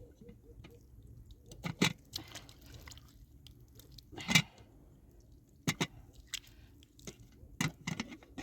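About five short, sharp clicks and knocks spaced a second or two apart, the loudest about four seconds in, over a faint low background murmur.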